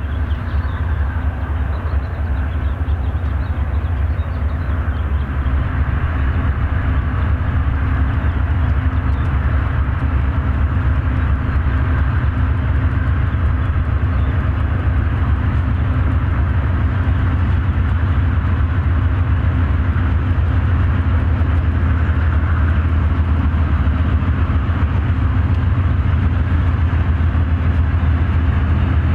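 Diesel freight locomotives running, a steady low engine drone that grows louder over the first few seconds and then holds.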